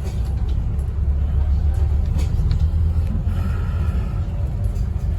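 Scania N270UD OmniCity double-decker bus's diesel engine and running gear, heard from inside the cabin: a steady low rumble with a few faint clicks.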